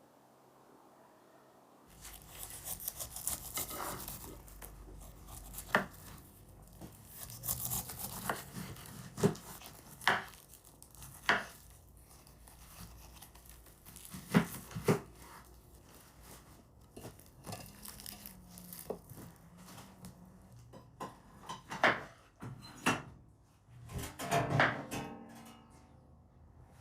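Kitchen handling sounds: irregular sharp knocks and taps, with tearing and rustling between them, beginning about two seconds in.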